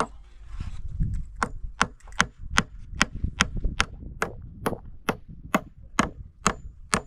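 A hand tool striking wood in a fast, steady rhythm, about fifteen blows at roughly two and a half a second, starting about a second in.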